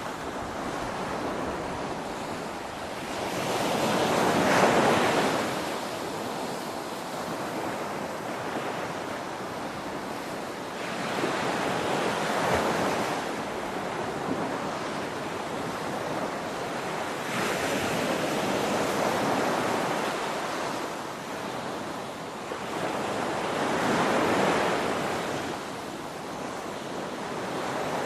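Ocean waves breaking on a shore, a steady rush of surf that swells with each wave about every six or seven seconds.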